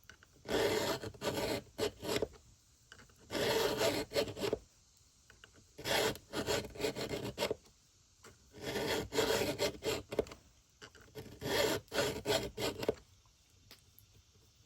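A round file is pushed by hand across a chainsaw chain's cutter teeth to sharpen them. The rasping strokes come in about six short runs with brief pauses between, and stop about thirteen seconds in.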